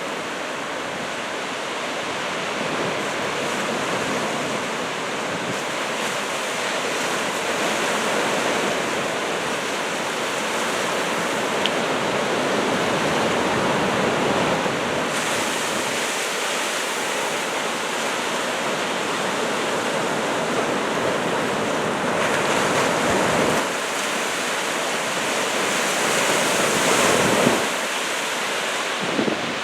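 Ocean surf from a typhoon swell breaking and washing ashore: a continuous rushing that swells louder a couple of times, most strongly near the end.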